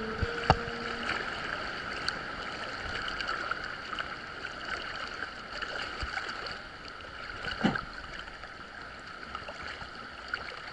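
Steady rush and gurgle of sea water surging in a sea cave, with a few sharp knocks, the loudest about three-quarters of the way through.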